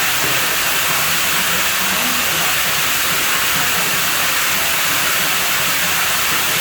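Steady, loud rush of running water at a pool villa, an even hiss without breaks.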